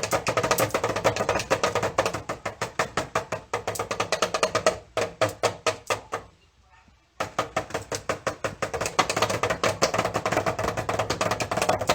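Drum being struck in a fast, steady run of sharp strokes, about seven or eight a second, stopping for about a second midway and then starting again.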